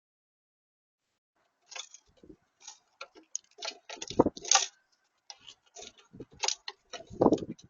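Birds at a bird feeder pecking and shuffling: irregular taps and clicks starting about two seconds in, with two heavier knocks, one near the middle and one near the end.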